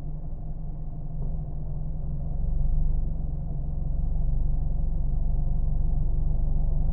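Car engine running with a steady low drone, growing louder and deeper about two and a half seconds in.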